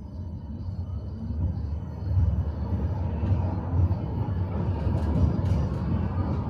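Tram running on its rails: a low rumble that grows louder as it gathers speed, with a few faint clicks of the wheels in the second half.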